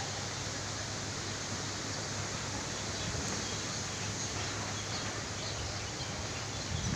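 Steady, even rushing noise of a storm.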